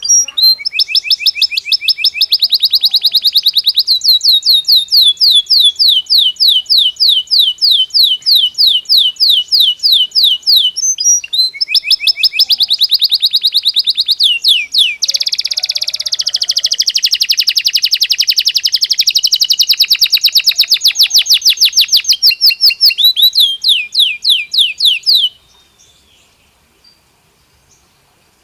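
Belgian canary singing in long, rapid trills of repeated high notes, the speed and pitch shifting from phrase to phrase. The song stops abruptly near the end.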